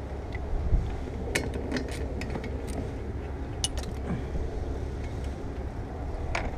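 Scattered small clicks and light knocks of plastic trim clips and cowl parts being worked loose on a car, in a few groups, over a steady low rumble.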